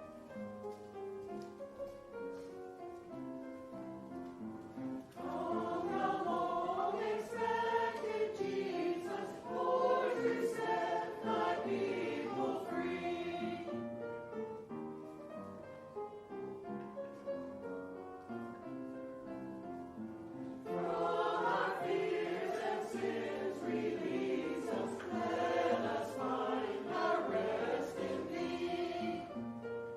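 A choir singing with instrumental accompaniment in a church service. The voices come in about five seconds in, drop out for an instrumental passage in the middle, and return about twenty seconds in.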